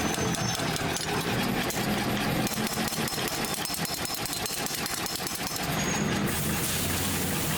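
A machine running steadily with a low hum, and a louder hiss for about a second, around six seconds in.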